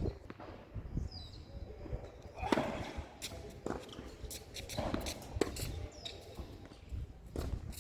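Tennis ball knocks on a court, several sharp hits and bounces a second or so apart, with footsteps and a brief high squeak about a second in.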